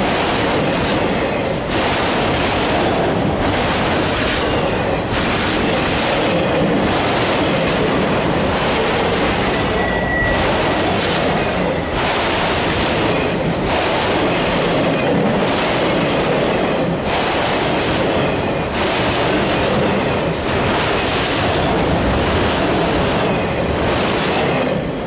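Autorack freight cars rolling past at close range: loud, steady wheel-on-rail rumble and clatter, swelling and easing in a regular beat about every second and a half. A brief wheel squeal comes about ten seconds in, and the noise drops away sharply near the end as the last car passes.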